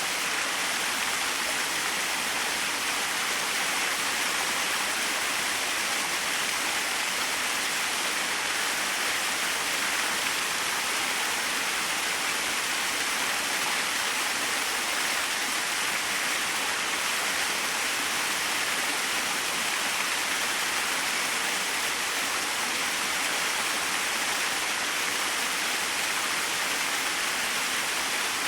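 Small waterfall splashing with a steady, even hiss, high and bright with little low rumble.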